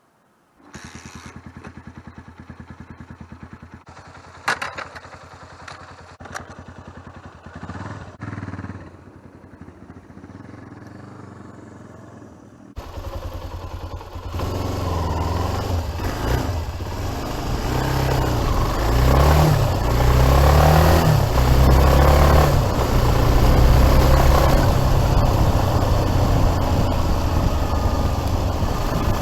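Yamaha TT250R Raid's air-cooled single-cylinder four-stroke engine idling, with a few sharp clicks and knocks over it. About halfway through the sound gets much louder, and the engine note rises and falls repeatedly as the bike accelerates through the gears while riding.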